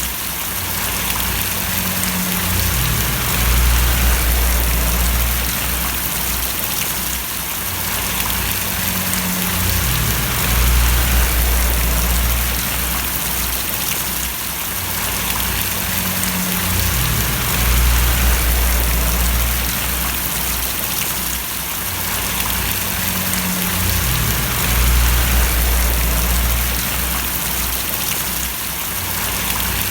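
Steady heavy rain pattering and splashing, a dense even hiss. Under it, a low rumble rises and falls about every seven seconds.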